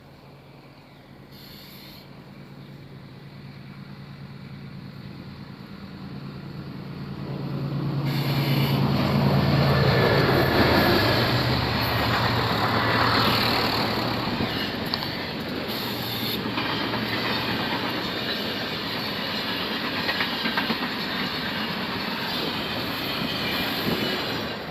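GE diesel-electric locomotive hauling a passenger train approaches with a rising engine hum. Its pitch drops about ten seconds in as it passes, and the coaches then roll by with steady wheel-on-rail clickety-clack.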